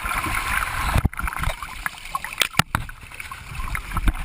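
Seawater sloshing and splashing around a GoPro held by survivors of a plane crash in the ocean, with rumbling buffeting and sharp knocks on the camera about a second in and again about two and a half seconds in.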